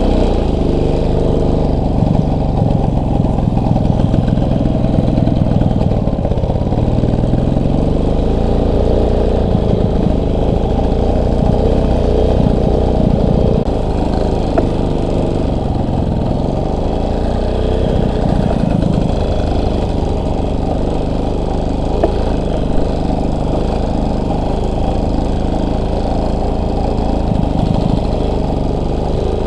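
Motorcycle engine running under way, its pitch rising and falling with the throttle, steadier in the second half.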